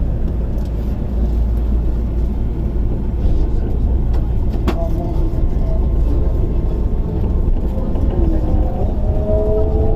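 Enoden 500 series electric train running, heard from the front of the train: a steady low rumble with a single sharp click about halfway through. Near the end a whine of the traction motors rises in pitch as the train speeds up.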